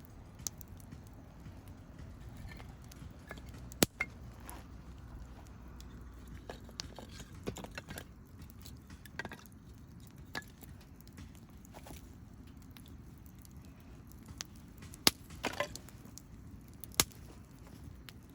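Wood campfire crackling, with scattered sharp pops over a low steady rumble. The loudest pops come about four seconds in and twice near the end.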